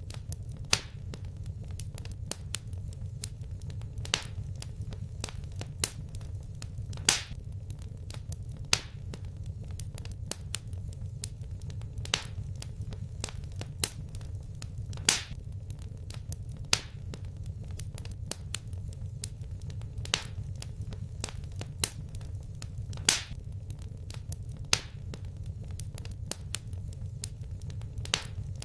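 Wood fire crackling, with a loud sharp pop every second or two over a steady low rumble of the flames.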